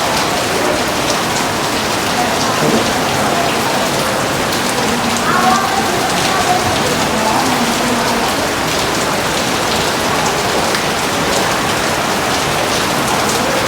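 Steady heavy rain falling, a dense even hiss of drops pattering on a surface.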